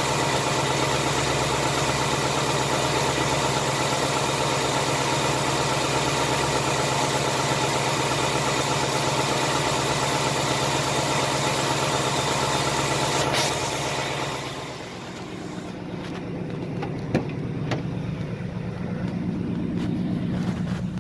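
2018 Mustang GT's 5.0 V8 idling steadily after a cold start, with no barbecue-tick tapping to be heard. About 14 seconds in, the engine sound drops to a quieter, duller hum, with a couple of sharp clicks after it.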